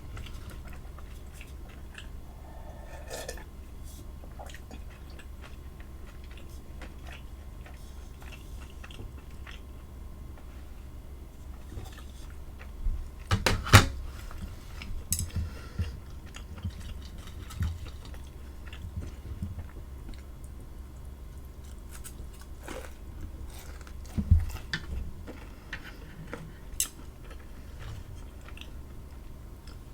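A person chewing and biting food close to the microphone, with scattered short clicks and a few louder clicks and knocks about halfway through and again later.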